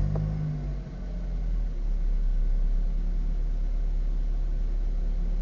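2004 Acura RSX's K-series four-cylinder engine just after starting: its revs flare and drop back within the first second, then it idles steadily.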